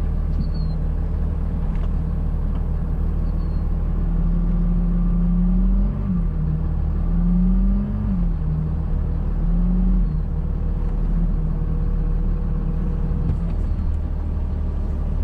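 Truck engine running steadily, its revs rising and then dropping back three times in the middle.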